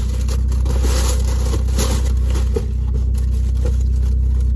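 Steady low rumble of engine and road heard inside a moving car's cabin, with a few faint knocks.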